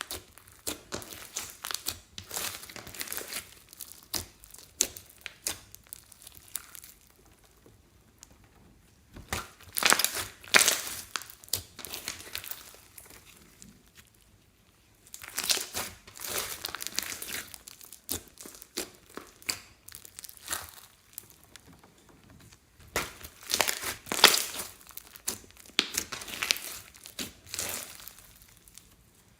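Slime being squeezed, stretched and mixed by hand, crackling and crinkling in clusters of quick sounds with short pauses between them.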